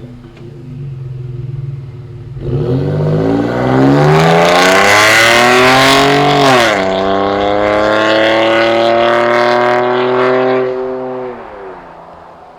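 Ford F-150's 2.7L twin-turbo V6 with an aftermarket downpipe and cat-back exhaust accelerating hard. The pitch climbs steeply from about two and a half seconds in, drops suddenly at a gear change about seven seconds in, climbs again, then falls away and fades near the end.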